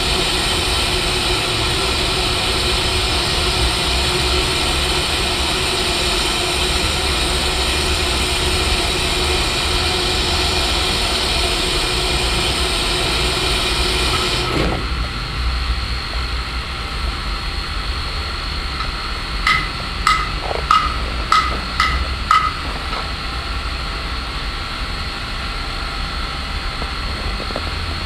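Sounds on the footplate of a PKP Ol49 steam locomotive: a loud steady hiss of steam that cuts off sharply about halfway through, leaving a quieter steady background. About five seconds later comes a quick run of about seven ringing metallic knocks.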